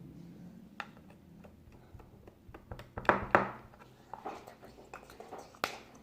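A scattering of small taps and clicks from objects being handled, with a louder cluster about three seconds in and one sharp click near the end.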